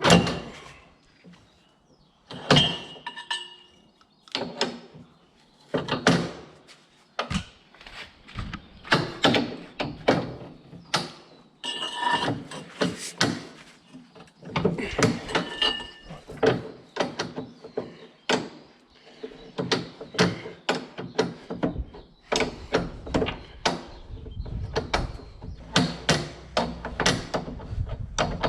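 Irregular metallic knocks, clinks and clanks of hand tools and parts being worked on a Bobcat 753 skid steer during disassembly, a few of them ringing briefly. A low rumble joins in about two-thirds of the way through.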